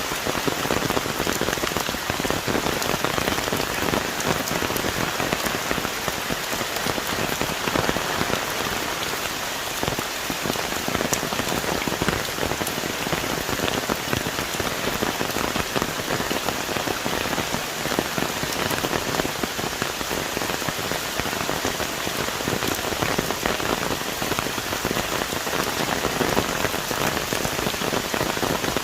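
Heavy rain pouring steadily onto forest foliage, a dense even hiss made up of countless drops.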